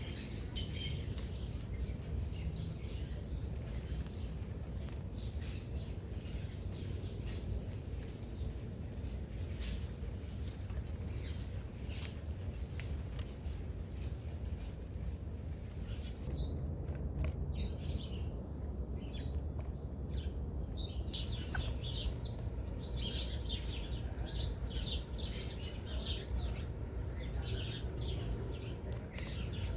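Several small birds chirping and calling at a feeder, in short high chirps that grow busier in the second half. A steady low rumble runs underneath.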